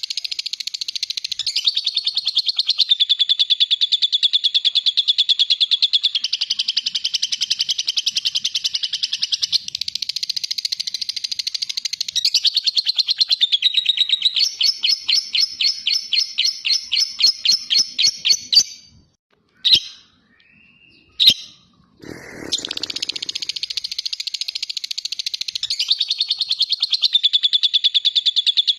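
Lovebird singing its ngekek, a long, very fast, high chattering trill. Partway through it slows into separate notes, breaks off for about three seconds with two short chirps, then picks up the fast trill again.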